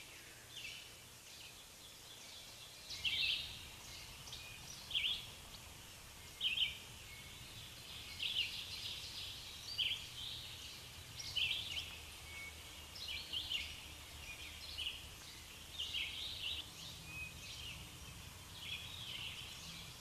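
Wild bird calls: short, high notes repeated every second or two, over a faint, steady low background rumble.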